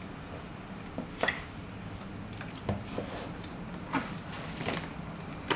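A few light taps and clicks, spaced about a second apart, over a steady low hum of room noise.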